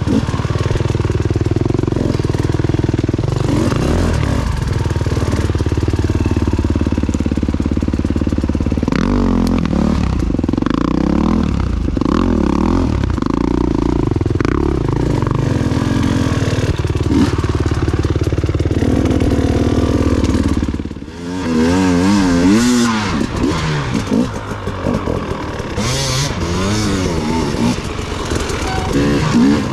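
Enduro dirt bike engine running, its pitch rising and falling with the throttle. About two-thirds of the way through the sound drops briefly, then the revs swing up and down quickly.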